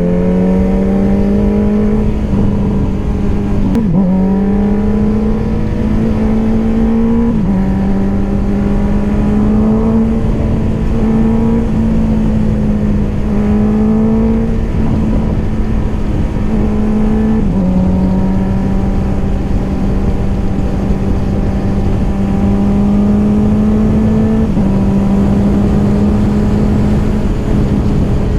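Honda CBR650R's inline-four engine running through an Akrapovic exhaust while riding, its note climbing slowly and dropping a step about four times, as at upshifts in the higher gears. Steady wind and road noise underneath.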